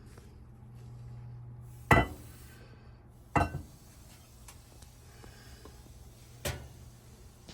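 Kitchen clatter: three sharp knocks of dishes or utensils being handled and set down, the first the loudest, over a low steady hum.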